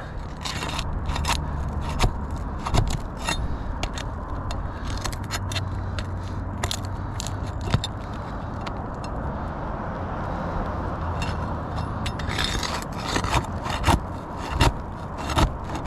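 A steel flat bar scraping and prying under brittle asphalt shingles to lift them and work the roofing nails loose, with many sharp clicks and crackles, busiest in the last few seconds.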